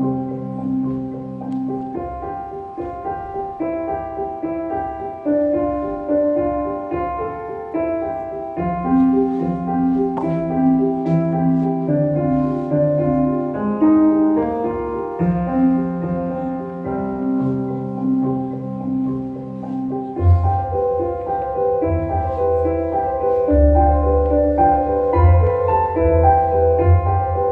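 Piano music, a steady melody of held notes, with a low bass part joining about two-thirds of the way through.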